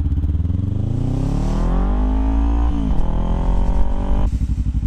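Kawasaki Ninja sport bike with an aftermarket exhaust accelerating: the engine note climbs, dips sharply at an upshift about three seconds in, climbs again, then drops back to a steady low note near the end as the throttle closes.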